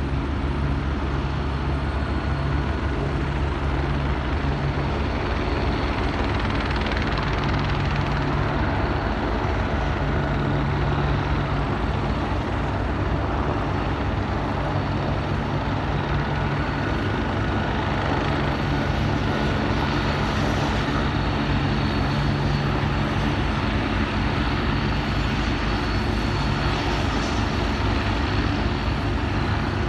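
Police helicopter's rotor beating with a rapid, even pulse over a steady engine noise, constant in level throughout.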